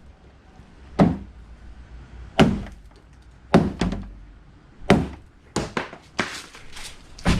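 An engine rocker cover banging against a car's stuck trunk lid to knock the latch free. About eight heavy thunks, spaced a second or so apart at first, then three quick ones and a last hard one near the end.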